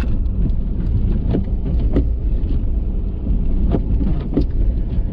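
Ford F-350 pickup running on the road, a steady low rumble broken by a few short sharp knocks.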